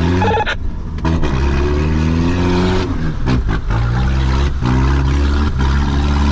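Off-road 4x4 engine revving hard as it is driven on, its pitch climbing three or four times with short dips between as the throttle is lifted or the gear changes, then holding steady near the end.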